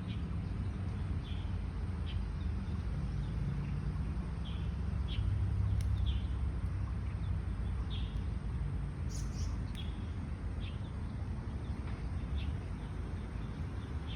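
Birds chirping outdoors: short, repeated chirps about once a second, with a brighter, higher call about nine seconds in, over a steady low rumble.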